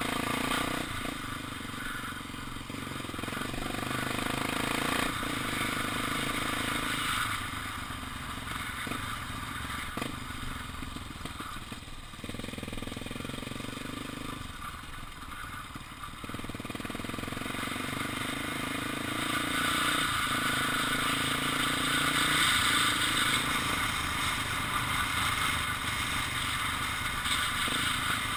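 Honda XR 250 Tornado's single-cylinder four-stroke engine running on the road, its revs rising and dropping in steps with gear changes. Wind rushing over the microphone grows louder in the second half as speed builds.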